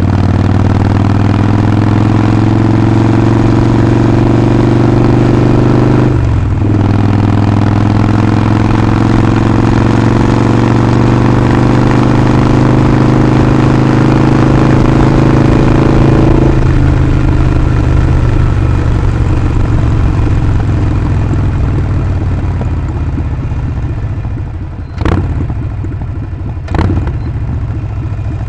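Harley-Davidson Sportster Forty-Eight's 1200 cc V-twin engine under way, pulling up through the gears, its pitch rising steadily with a brief break at a gear change about six seconds in. From about sixteen seconds it eases off and runs at lighter load, with two short sharp breaks near the end.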